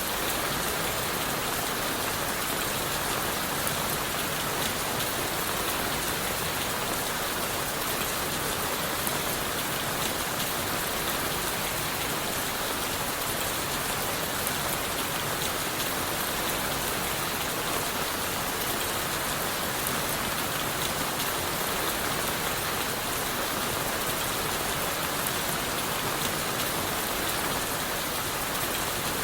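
Steady rain falling on leaves and wood: an even, unbroken hiss flecked with the patter of individual drops.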